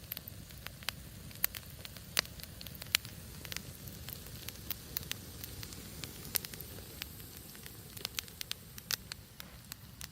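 Campfire burning, with frequent sharp, irregular pops and crackles of burning wood over a steady low hiss.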